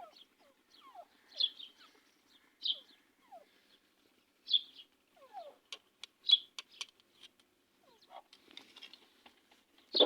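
Birds chirping: short, high chirps about once a second, some with a quick downward sweep, and a few sharp clicks around the middle.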